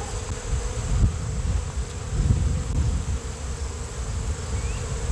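Honeybees humming steadily around an opened hive, over a low, irregular rumble.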